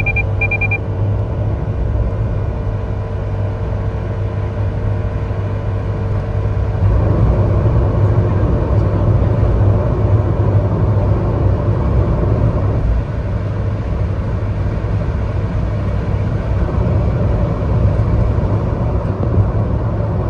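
Cabin sound of a Daihatsu Taft G Turbo's 660 cc turbocharged three-cylinder engine under acceleration, with its Blitz Power Con in power mode. It is a steady low rumble of engine and road noise, louder from about seven to thirteen seconds in. Two short electronic beeps sound right at the start.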